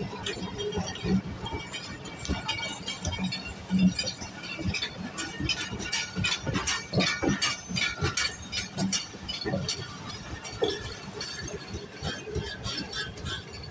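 Pakistan Railways passenger coaches rolling past as the train pulls out, wheels clattering over rail joints with many irregular metallic clanks and clinks, thickest in the middle.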